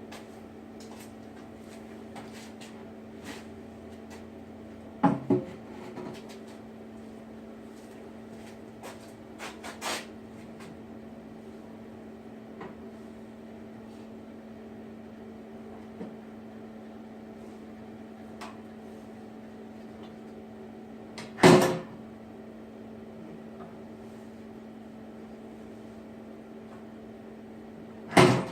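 Furnace lid lifter being worked, with sharp clunks and knocks, a double knock about five seconds in and the loudest two about two-thirds of the way through and at the very end, over a steady low hum.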